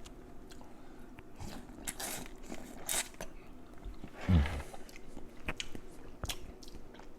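Close-miked biting and chewing of buttery corn on the cob: wet smacks and small crunching clicks, with a short 'mm' hum about four seconds in.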